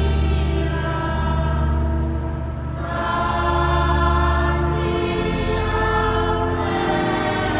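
Choir singing sustained chords in the cathedral, the chord shifting about three seconds in. A deep, steady bass note sounds under the voices and drops away about five seconds in.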